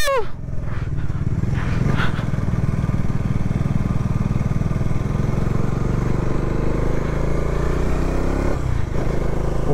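Bajaj Dominar 400's single-cylinder engine running steadily as the motorcycle pulls uphill, its pitch rising a little about six seconds in.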